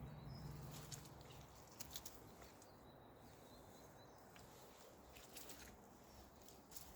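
Quiet outdoor ambience: faint bird calls and a few soft rustling footsteps through undergrowth. A low steady hum fades out in the first second or two.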